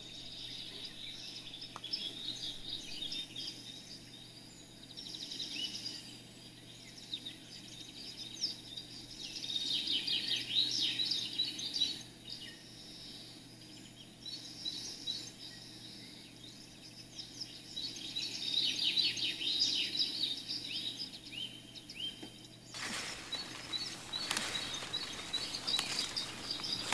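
Outdoor ambience with small birds chirping and singing in repeated bouts over a steady background hiss. The background changes abruptly near the end.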